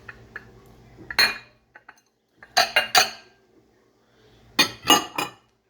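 A dish clinking and knocking as it is handled, each strike ringing briefly. There is one knock about a second in, three quick ones around the middle, and three more near the end.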